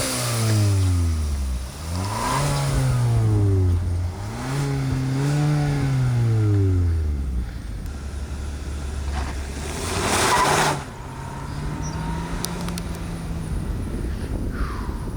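2021 Kia K5 LXS's 1.6-litre turbocharged four-cylinder engine revving: the engine note falls and rises in several sweeps, then settles lower and steadier. About ten seconds in there is a short burst of noise.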